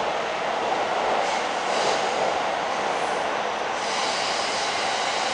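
Train running on rails close by, a steady rolling noise with a higher hiss swelling twice, around a second or two in and again near the end.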